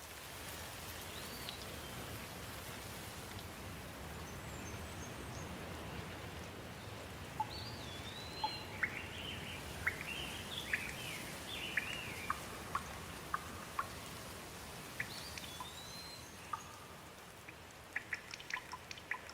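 Steady rain falling, with a bird calling in short, curving chirps several times through it. Close drops tick sharply now and then, more often near the end.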